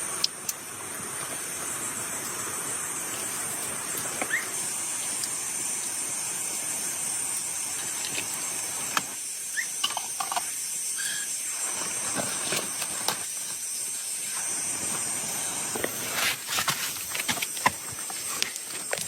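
Steady hiss of heavy rain in a forest, with a constant high-pitched whine above it and scattered clicks and knocks that grow busier near the end.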